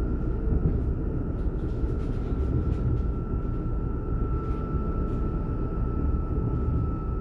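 Alstom/Bombardier class 422 S-Bahn electric multiple unit running, heard from inside the train: a steady low rumble of wheels on the track with a steady whine from the electric traction drive, and a few faint clicks.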